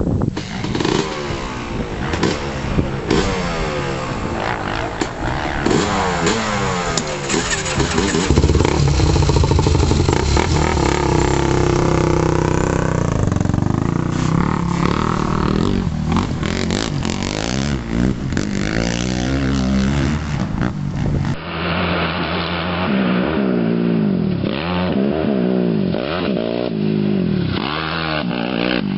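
Yamaha YFZ450 sport quad engines revving hard on a motocross track, pitch climbing and dropping again and again as they accelerate and back off. The sound changes abruptly about 21 seconds in.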